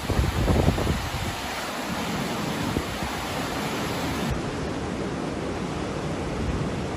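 Steady rushing noise of storm wind, with gusts buffeting the microphone during the first second; the sound changes a little about four seconds in.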